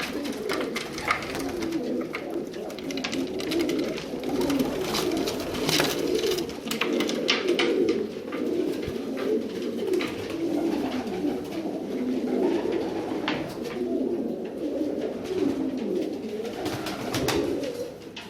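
Many domestic pigeons cooing at once, their coos overlapping without a break, with a few short sharp noises now and then.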